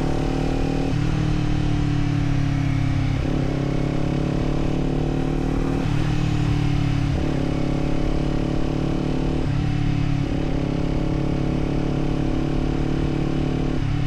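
Kawasaki Z400's parallel-twin engine and exhaust running under way. The engine note steps up and down in pitch every few seconds as the throttle and gears change.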